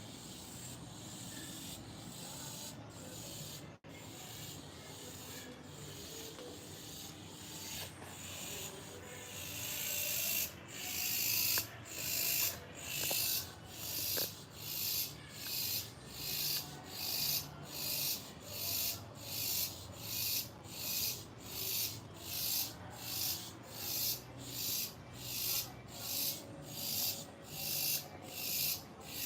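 Cicadas calling: a loud, rasping buzz that pulses in steady swells, about one and a half a second. It builds up sharply about ten seconds in.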